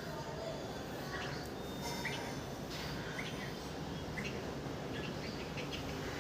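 Small birds chirping: short, high, separate chirps scattered through, over a steady low background rumble.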